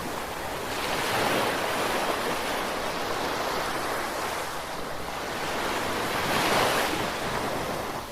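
Gentle ocean surf: waves wash in with a steady rush, swelling louder about a second in and again near the end.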